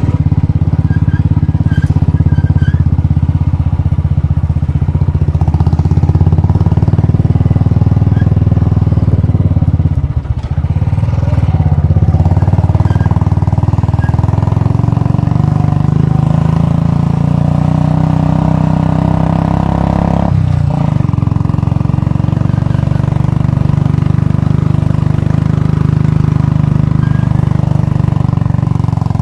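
Royal Enfield Bullet's single-cylinder four-stroke engine running steadily, with a brief drop in sound about ten seconds in and another about twenty seconds in.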